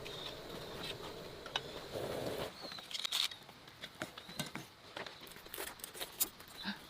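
A steady low hum cuts off about two and a half seconds in, followed by scattered light taps, clicks and rustles.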